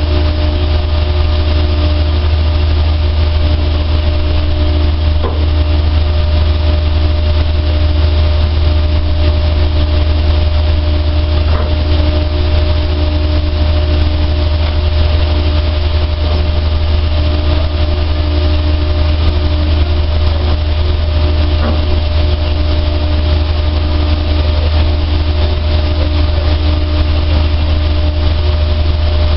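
A dryer machine running steadily: a deep, constant hum with fainter steady tones above it and an even hiss, unchanging throughout.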